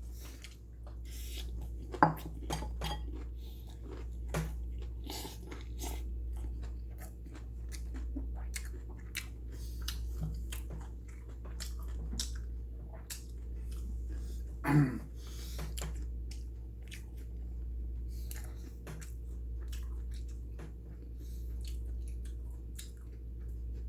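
Close chewing of a mouthful of rice with bean sprouts and garlic: many small crunchy clicks and wet mouth noises, with a couple of louder mouth sounds about two seconds in and near the middle. A steady low hum runs underneath.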